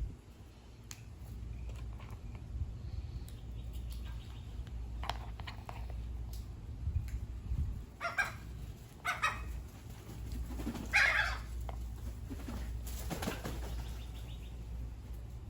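Birds flapping their wings and giving a few short calls, in separate bursts, over a steady low rumble.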